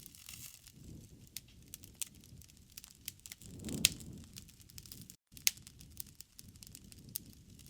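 Wood fire crackling in a fireplace: many sharp snaps and pops over a low, swelling flicker, with two louder pops about four and five and a half seconds in. A split-second gap of silence falls just before the second loud pop.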